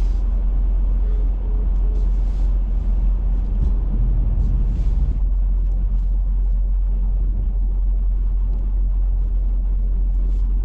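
Plow truck's engine running with a steady, deep rumble as the truck pushes snow across the lot, with a few faint scraping sounds.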